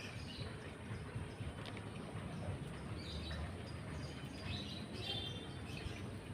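A few short bird chirps over a low, steady outdoor rumble.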